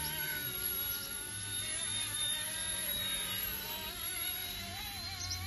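Small electric RC helicopter (RC ERA C184 MD500) hovering, its motor and rotors giving a steady whine whose pitch wavers slightly as the pilot corrects against the wind, over a low rumble of wind.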